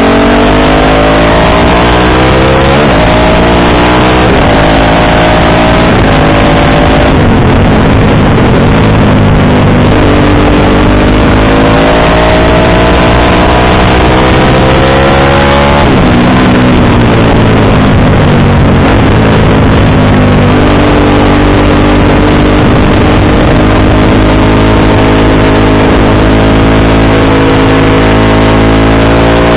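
Motorcycle engine under way, its pitch climbing as it accelerates and dropping sharply at gear changes, with steadier running in between, over heavy wind and road rush.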